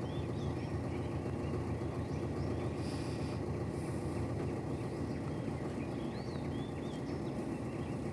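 Steady low rumble of outdoor background noise, with faint, thin high chirps of small birds scattered through it.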